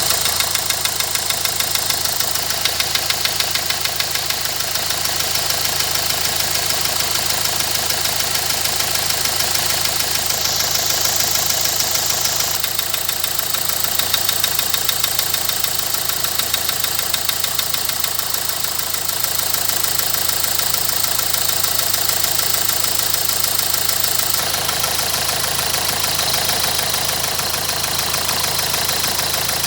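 Renault 1.5 dCi K9K four-cylinder diesel idling with a steady, regular knock, which the owner puts down to a Delphi injector. The knock comes only with the engine hot, although the injectors are bench-balanced and coded and the ECU shows no faults.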